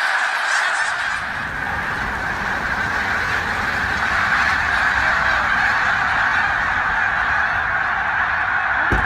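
A large flock of birds calling all at once, a steady, dense din, with a low rumble coming in about a second in and a sharp click near the end.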